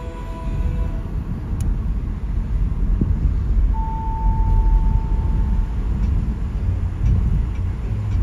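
Car road noise: a steady low rumble of tyres on a rain-wet road while driving. About halfway through, a steady mid-pitched tone sounds for about two seconds.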